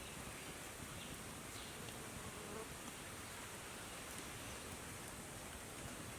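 Steady outdoor forest ambience: a faint, high, even insect drone over a low rumble of wind.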